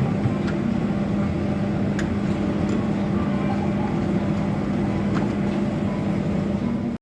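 Steady low mechanical hum with a constant drone, with a few faint light clicks.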